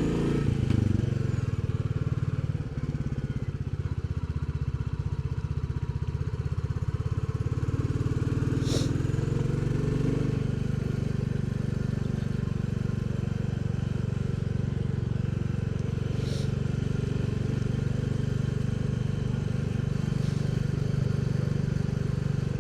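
Royal Enfield Bullet 350's single-cylinder engine running steadily while riding along, its low exhaust pulse heard from the moving bike. Two brief high-pitched sounds stand out, about a third of the way in and again past two thirds.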